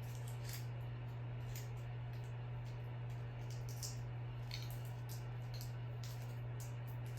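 52-inch Harbor Breeze Whitestar ceiling fan coasting down: a steady low hum with faint, irregular light ticks.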